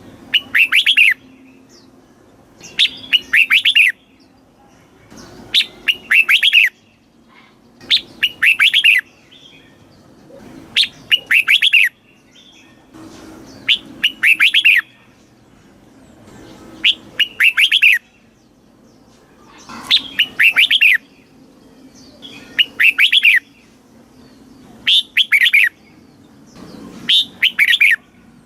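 Red-whiskered bulbul singing the same short song phrase over and over, about every three seconds, each phrase a quick run of bright notes.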